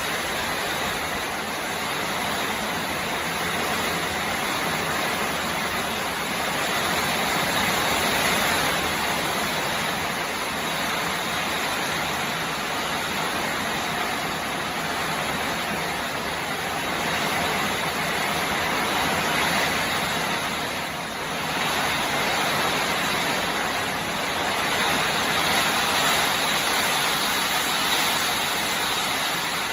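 Steady rushing noise of storm rain and wind from the tail end of a tropical storm, swelling and easing every several seconds.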